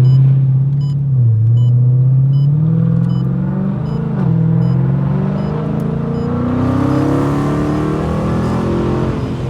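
Straight-piped Dodge Challenger Scat Pack's 6.4-litre HEMI V8 being revved, a little song from the exhaust: the revs dip briefly about a second in and again about four seconds in, then climb slowly higher toward the end.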